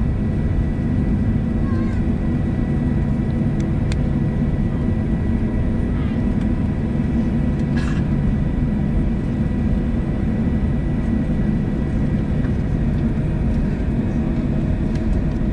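Cabin noise inside a Boeing 737-700 taxiing on the ground: a steady low rumble with the CFM56 engines' whine at idle, and a couple of faint clicks.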